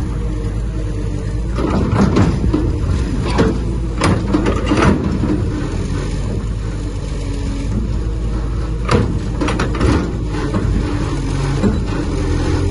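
Heavy diesel construction machine engine running steadily, with repeated sharp metallic clanks and knocks over it.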